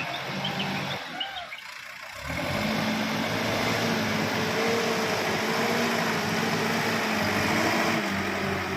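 ACE backhoe loader's diesel engine running steadily. It drops away about a second in and picks back up just after two seconds.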